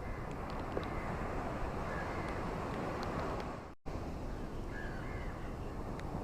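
Ocean surf washing steadily on a beach, with a few faint short bird calls over it. The sound cuts out for an instant a little under four seconds in.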